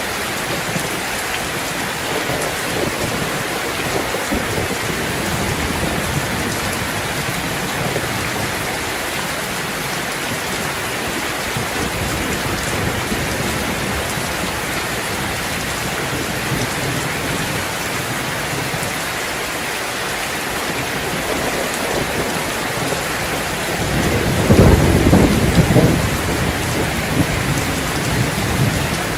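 Steady rain falling, with a low rumble of thunder rolling in near the end.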